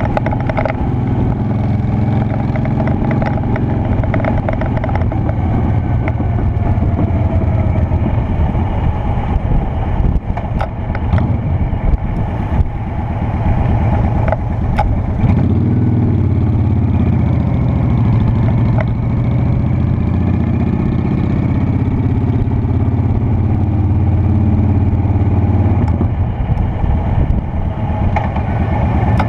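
Honda Shadow Spirit 750's V-twin engine running on the move, its note rising and falling with the throttle. A few sharp knocks around ten to twelve seconds in.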